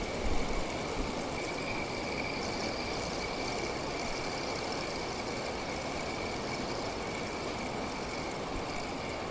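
Steady rush of water pouring over a weir.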